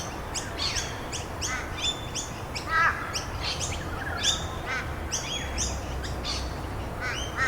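Several songbirds chirping and calling in quick, overlapping short notes, some high and sharp, some lower, repeated curving whistles, over a steady background hiss.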